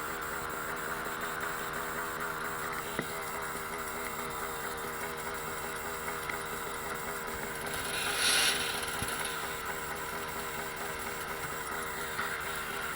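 Dirt bike engine running steadily, its pitch wavering slightly, with a brief louder rush of noise about eight seconds in.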